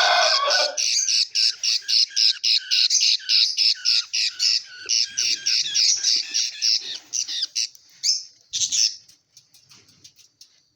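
Budgerigars calling in a fast run of short, high squawking chirps, about four or five a second, fading out near the end. A lower call overlaps them briefly at the start.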